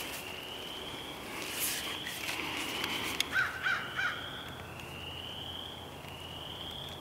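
Birds calling in the woods: three short calls in quick succession about three and a half seconds in, over a fainter high call that rises in pitch and repeats about once a second, with brief rustling.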